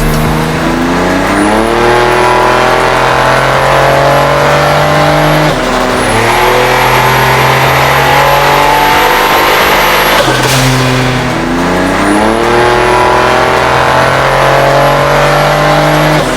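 Buick Grand National's turbocharged 3.8-litre V6 running hard. The revs climb and then hold steady three times, with a thin high whine rising alongside each climb and a brief break with a short rush of noise about ten seconds in.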